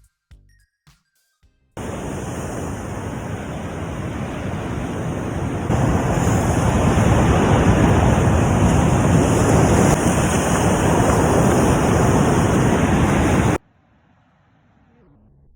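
A steady rushing noise of sea surf and wind on the shore. It grows louder about six seconds in and cuts off abruptly near the end. Brief music notes die away at the start.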